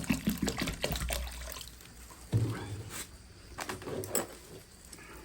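Water poured and splashing over freshly boiled noodles to cool them for cold noodles, for about the first two seconds, then a knock and a few light clinks of kitchenware.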